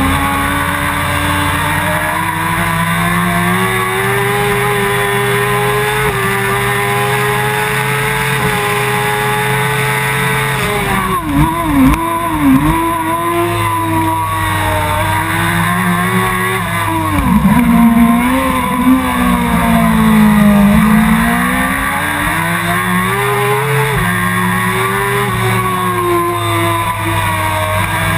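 Suzuki GSX-R 1000 inline-four engine at racing revs, heard from the bike itself on a fast lap. The pitch climbs steadily, drops in several quick dips about a third of the way in as the revs come down for a corner, runs lower and swells for a few seconds, then climbs again with a step near the end as it accelerates.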